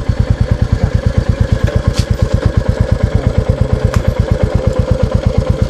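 Royal Enfield Classic 350's single-cylinder engine running at low revs, an even, rapid thump of about nine beats a second. Two light clicks about two and four seconds in.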